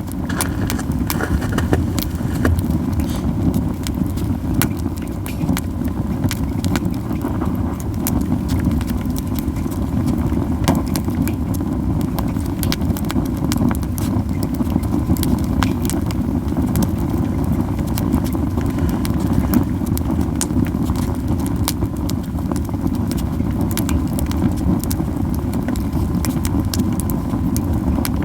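Japanese yew wood campfire crackling, with frequent sharp pops and snaps scattered irregularly over a steady low rumble.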